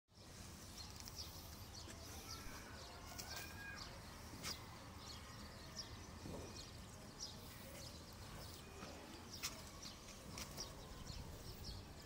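Scattered short, high bird chirps, a few each second, over faint outdoor background noise.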